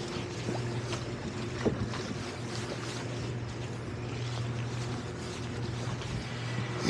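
Towboat engine running steadily under tow, with wind and water noise around it. A single sharp knock about a second and a half in.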